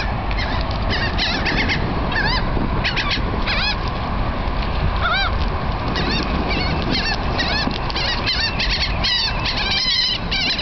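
A flock of seagulls calling as they gather to feed: many short arched squawks, repeating and overlapping. A steady low rumble runs underneath.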